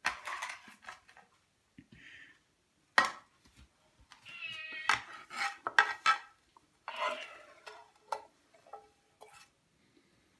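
A metal utensil scraping and clinking against a frying pan as scrambled egg is scooped out, in a string of sharp knocks and scrapes.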